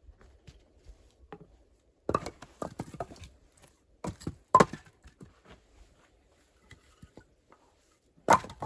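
A series of sharp knocks and clatters, in short clusters a second or two apart, with one of the loudest near the end.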